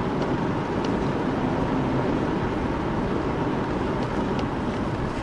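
Patrol car driving at speed in a pursuit, with a steady rush of engine, tyre and wind noise.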